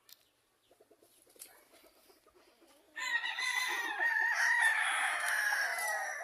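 Rooster crowing: after a few seconds of soft clucking, one long crow begins about three seconds in and holds for about three seconds.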